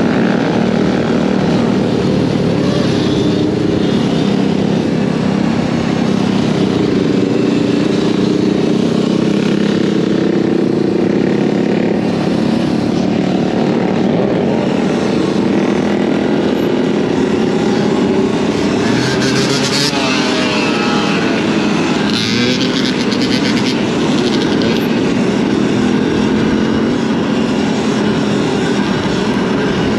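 Motorcycle engines running steadily during a ride, with wind rushing over the microphone. About twenty seconds in, a sweeping rise and fall in pitch, like another bike passing.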